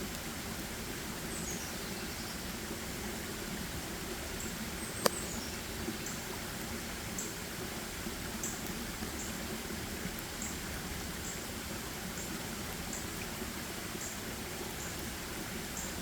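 Forest ambience: a steady rushing hiss with a small creature's thin high call repeating about every three-quarters of a second from about four seconds in, a few high falling chirps early on, and one sharp click about five seconds in.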